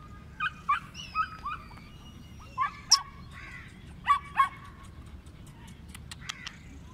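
Pointer dogs giving short, sharp, high-pitched yips and barks, mostly in quick pairs. They stop after about four and a half seconds.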